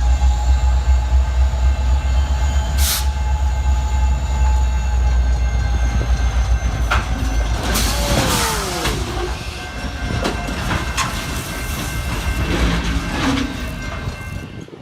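A train passing at speed: a heavy low rumble with a steady high tone over it through the first half. In the second half the rumble eases and a run of sharp clanks and knocks follows.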